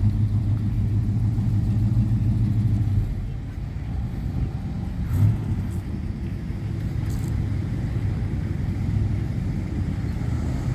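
Classic cars and trucks driving slowly past with a low engine rumble. The rumble is loud for the first three seconds or so, then drops to a quieter, steady rumble with a brief swell about five seconds in.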